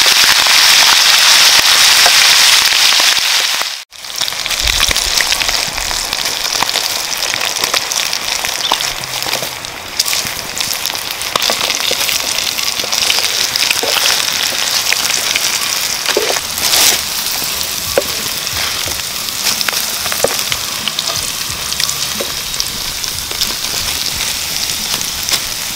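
Hot oil sizzling and crackling loudly in a pan of frying quail with citrus leaves and chillies: a dense hiss with many small pops. It breaks off for a moment about four seconds in, then carries on a little quieter.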